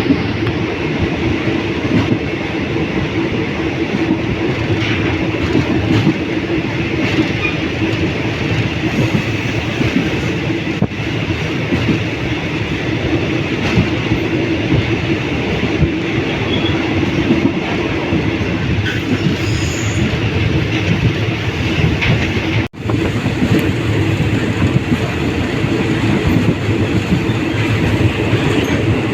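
Train running along the rails: a steady rumble of wheels and carriages with a light clickety-clack over the rail joints. The sound cuts out for a split second about two-thirds of the way through.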